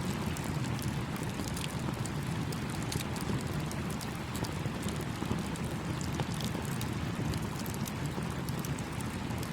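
Campfire crackling, with many small sharp pops scattered through it, over the steady rush of a small stream.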